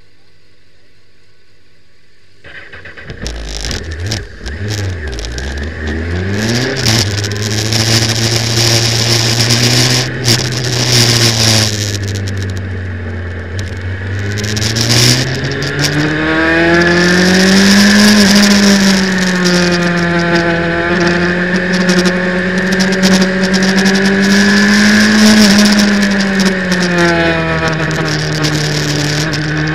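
Sport motorcycle engine heard onboard: after a couple of seconds of low hum it revs and pulls away, then runs hard at speed, its pitch dipping as it slows about halfway through and climbing again. Heavy wind rush over the mounted microphone runs under the engine.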